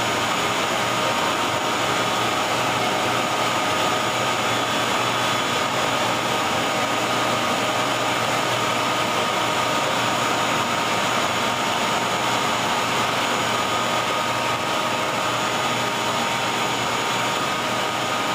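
CNC router spindle and its shop-vacuum dust collection running together: a constant whir with several steady whining tones.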